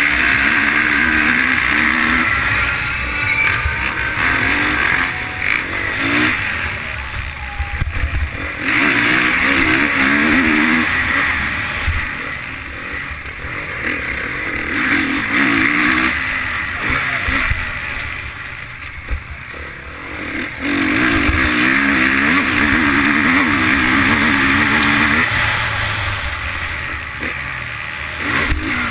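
Motocross bike engine heard on board at race pace, opening up hard and backing off in turn every few seconds as the bike goes round the track, with rushing wind over the microphone.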